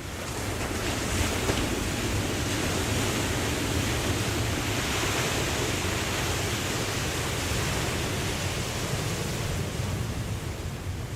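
Ocean surf washing in, swelling within the first second or so and easing off near the end.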